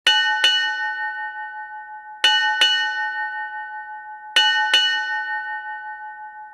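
A bell struck in three pairs of quick double strikes, about two seconds apart, each pair ringing on in clear tones and slowly fading.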